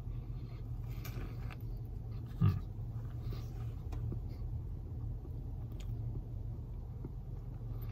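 Quiet chewing and mouth noises of a man eating a fried chicken sandwich, faint soft clicks now and then, over a steady low hum inside a car. A short low sound stands out about two and a half seconds in.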